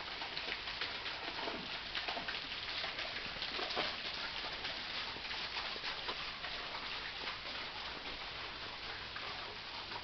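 Waterfall running low, its thin flow splashing steadily onto rock: an even rush of water with a dense patter of small splashes.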